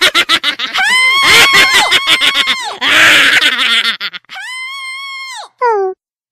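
Shrill, high-pitched cartoon voices screaming and wailing for about four seconds. Then one long, steady high wail lasting about a second, a short falling cry, and silence.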